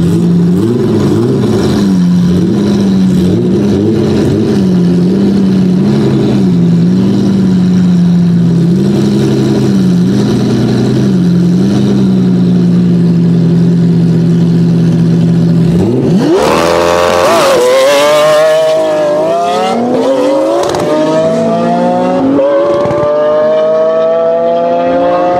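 A 725 hp BMW E30 and a Lamborghini Aventador's V12 running at the drag-race start line, revs held steady and bobbing slightly. About sixteen seconds in, both launch, and the engines rev hard and climb through several gear changes as the cars pull away.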